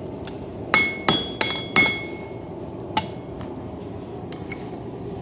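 Hand hammer striking hot coil-spring steel on an anvil to draw out a knife handle: four quick ringing blows about a second in, then a single blow about three seconds in.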